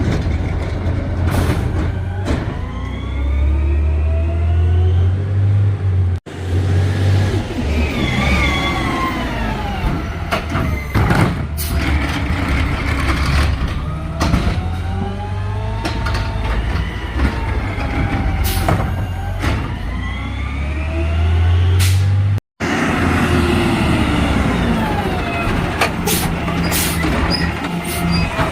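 Garbage truck at work: its engine revs up and falls back over and over, with sharp knocks in between. The sound drops out briefly twice.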